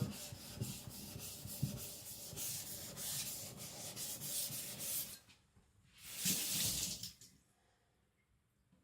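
Steel cleaver blade rubbed back and forth flat on a whetstone: a run of quick gritty strokes for about five seconds, then one more stroke after a short pause before it stops. The blade is held flat against the stone to flip the burr.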